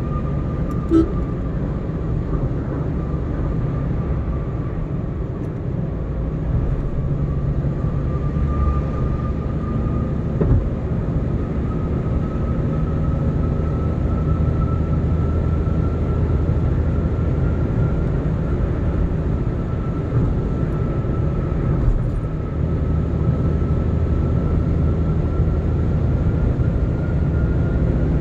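Car being driven at road speed: a steady rumble of road and engine noise, with a thin whine in it that climbs slowly in pitch. Two light clicks, about a second in and near the middle.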